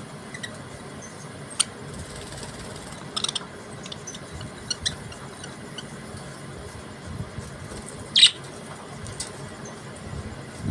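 Budgerigars giving short, sharp chirps and squeaks now and then, the loudest one about eight seconds in, over a steady background hum.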